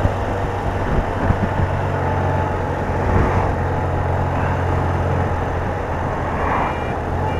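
BMW R80RT's air-cooled flat-twin engine running steadily, heard from the bike. Near the end a vehicle's reversing alarm starts beeping.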